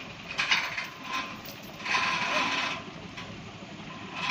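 Heavy truck noise on a steep road: two loud hissing bursts, about half a second in and again around two seconds in, over a steady background rumble.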